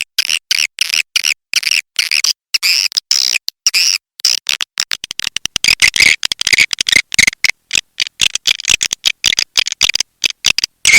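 Swiftlet lure call: rapid, high-pitched twittering chirps and clicks in quick broken runs, growing denser from about four seconds in. It is a recorded calling sound played to draw swiftlets into a nest house.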